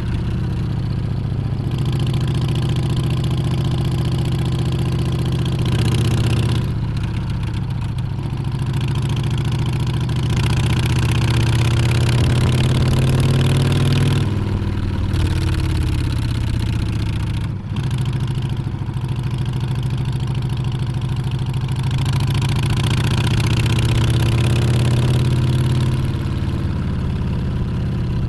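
Harley-Davidson Street Bob's V-twin engine running on the move, its pitch climbing and falling several times as the throttle opens and closes, with a short sharp dip in sound a little past halfway.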